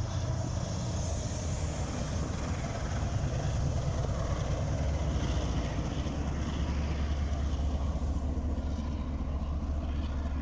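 Train locomotive running with a steady low engine drone, which drops to a deeper, stronger hum about five seconds in.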